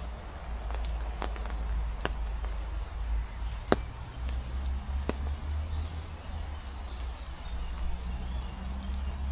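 Heavy rain falling, with wind rumbling on the microphone. Four sharp taps sound at uneven intervals in the first half, the loudest a little past the middle.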